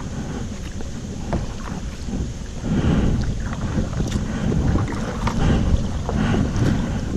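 Wind rumbling on the microphone with water splashing against a kayak on a choppy river, growing louder a little over a third of the way in.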